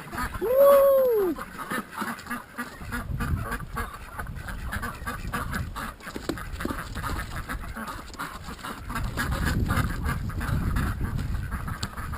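Domestic ducks quacking: one loud call rising and falling in pitch about a second in, then a long run of rapid, chattering quacks.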